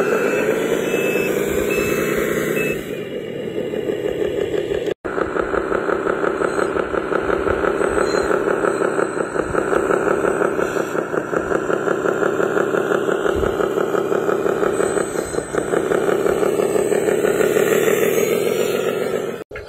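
Radio-controlled construction model running: a steady engine-like motor sound with a fast, even pulse, broken by two brief cuts, about five seconds in and near the end.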